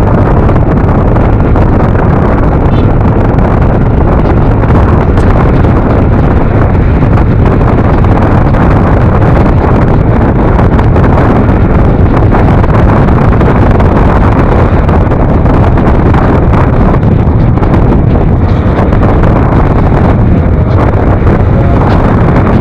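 Heavy wind rush on a rider-worn microphone while riding a Yamaha NMAX scooter at speed. Steady engine and road noise runs underneath.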